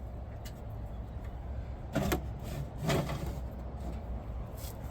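Two short knocks about a second apart over a steady low outdoor rumble.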